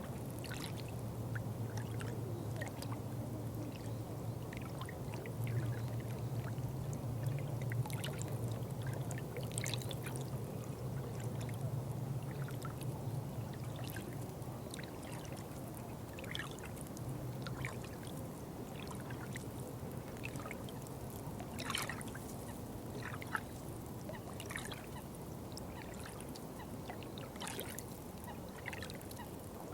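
Water trickling and pouring steadily, with scattered small splashes and drips. A low steady hum sits underneath and fades out a little past halfway.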